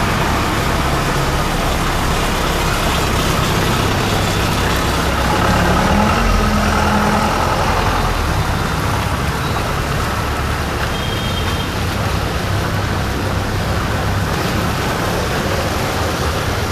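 Road traffic: vehicle engines running close by over a steady hiss, with one engine rising in pitch about six seconds in.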